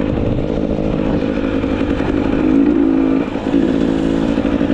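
GasGas EC300 two-stroke enduro motorcycle engine running under way, with a brief drop in level about three seconds in.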